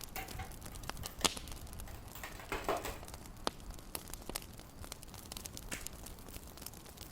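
Fireplace crackling: scattered sharp pops and snaps over a low hiss, with one louder pop a little past a second in. A brief rustle a little before three seconds in.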